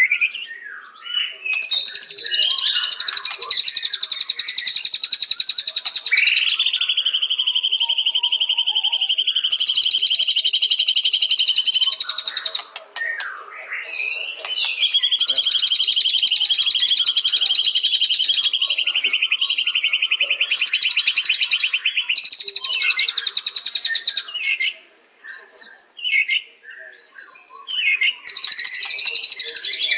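White-rumped shama (murai batu) singing. It gives long, rapid high trills of several seconds each, broken by a long steady lower note and short whistled phrases.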